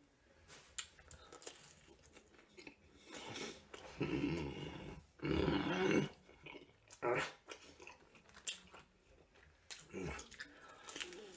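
Close-miked eating: bites and crunchy chewing with scattered crackles, broken by two loud growl-like grunts from the eater about four and five seconds in, and a shorter one about a second later.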